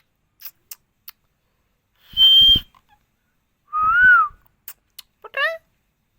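Pet green parrot whistling. It gives a short steady high whistle, then a lower whistle that rises and falls, then a quick rippling call near the end, with a few faint clicks in between.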